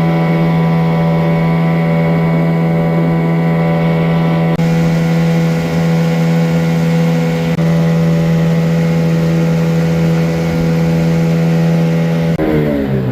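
Boat motor running steadily at constant revs, its pitch dipping and then rising again near the end as the throttle changes.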